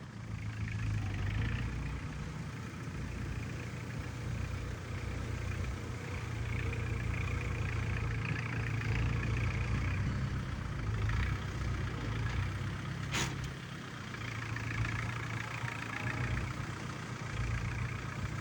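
Kubota MU4501 tractor's diesel engine running steadily, its level swelling and easing a little at times, with one sharp click about thirteen seconds in.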